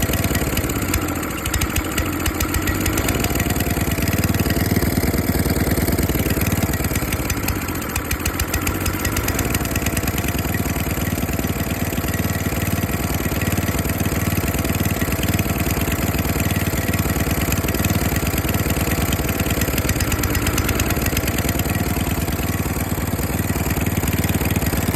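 Tecumseh small engine running steadily at a fast idle, its speed sagging briefly about a second and a half in and again around eight seconds.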